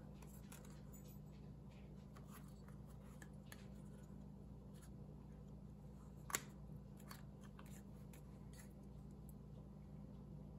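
Faint, scattered clicks and rustles of paper being cut and handled at a craft table, with one sharper click about six seconds in. A low steady hum runs underneath.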